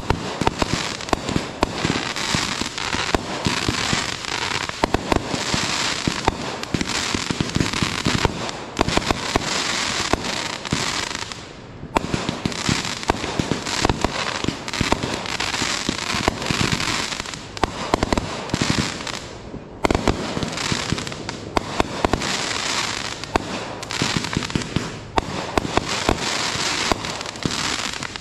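Aerial firework shells bursting in rapid succession, a near-continuous barrage of bangs and dense crackling from glittering stars. The barrage eases for a moment twice, about a third and two-thirds of the way through.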